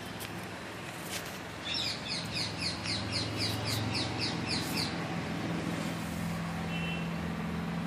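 A bird singing a quick run of repeated chirps, about four a second, for about three seconds, over a faint steady low hum.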